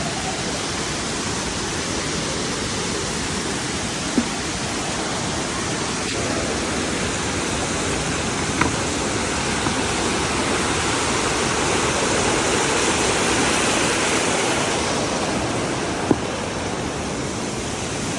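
Floodwater rushing in a steady, loud torrent, with three brief knocks.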